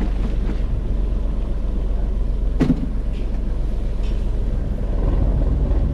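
Fishing boat's engine running steadily, a constant low rumble, with one brief sharp knock about two and a half seconds in.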